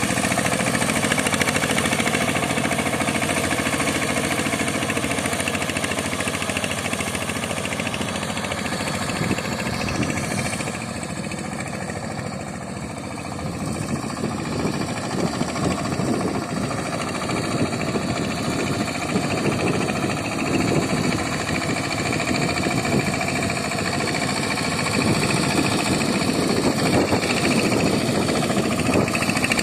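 Tractor engine powering a boat, running steadily. It eases slightly about ten seconds in, then picks up again with a rougher, choppier beat.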